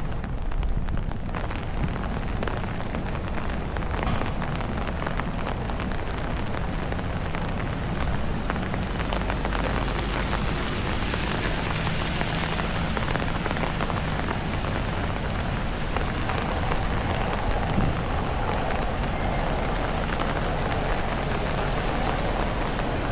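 Heavy typhoon rain falling steadily, an even hiss of rain on surfaces.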